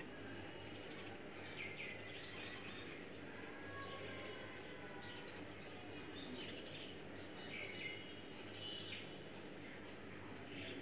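Faint birds chirping, short high calls scattered irregularly throughout, over a steady low hum.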